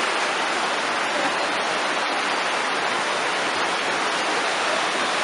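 Steady rushing of a clear mountain river running over rocky rapids.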